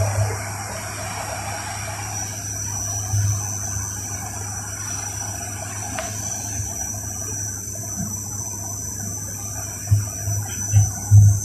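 Steady airliner cabin noise in flight: a constant rushing hiss with a high whine over a low hum, with a few low thumps near the end.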